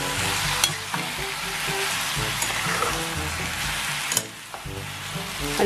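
Squid frying in hot oil with onion, ginger and garlic, a steady sizzle as it is stirred, with a few sharp clicks of the utensil against the pot. The sizzle drops off after a click about four seconds in. Background music plays along.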